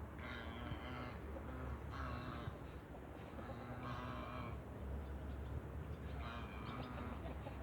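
Domestic geese calling, four honking calls a second or two apart, over a low rumble.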